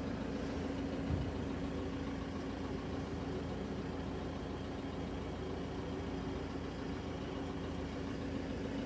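Vehicle engine idling steadily, a constant low hum, with a soft thump about a second in.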